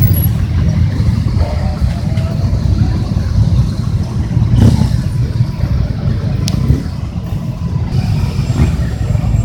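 Motorcycle engines running as a loud, steady low rumble with no clear rise or fall in pitch.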